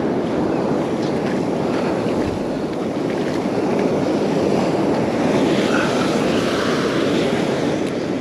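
Heavy Gulf surf washing onto the beach, a steady rush that swells a little about five seconds in, with wind on the microphone.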